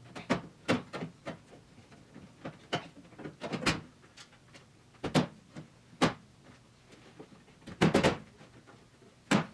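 Irregular knocks and clicks of hands and tools working on a car dashboard, as nuts are started on the dash pad's studs and parts are handled.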